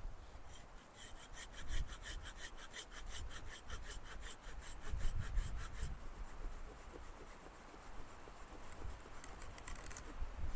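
Hand saw cutting wood with fast, even back-and-forth strokes that start about half a second in and stop around six seconds in, followed by a few more strokes near the end.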